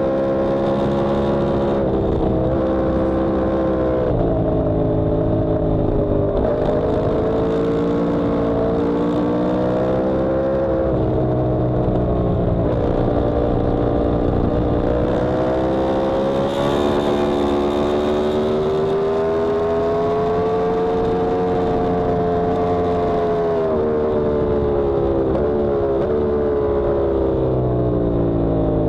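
Yamaha R1M's crossplane inline-four engine, heard onboard, working hard. Its pitch climbs and falls over and over, with sudden steps at each gear change.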